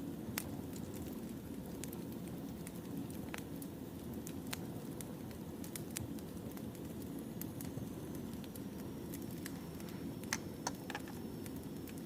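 Wood fire burning, with a steady low rumble and scattered sharp crackles. Two louder pops come about ten seconds in.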